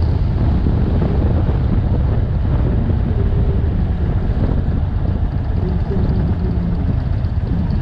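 Motorcycle riding at speed, with wind rushing over the camera microphone above a steady engine drone.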